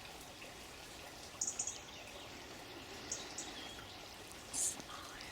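Running water, a steady soft trickling stream, with a few short soft hisses about one and a half, three and four and a half seconds in.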